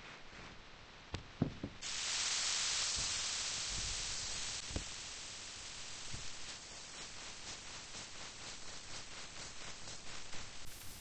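Steady hiss of falling rain that comes in suddenly about two seconds in, loudest at first and then easing, with light scattered ticks of drops later on.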